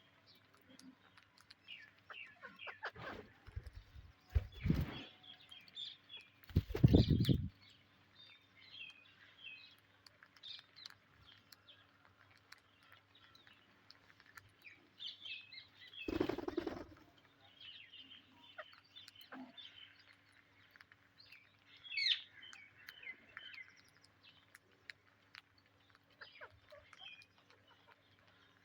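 Pet Psittacula parakeets chirping in short, scattered calls, broken by a few louder thumps or rustles about three to five seconds in, around seven seconds (the loudest) and about sixteen seconds in.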